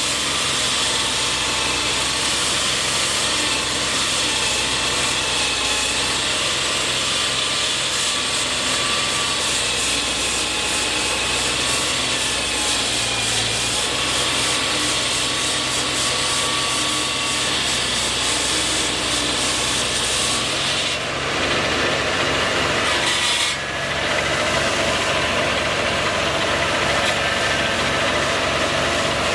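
Steady machinery noise: an engine running continuously with a rasping, grinding noise over it, which changes briefly about three-quarters of the way through.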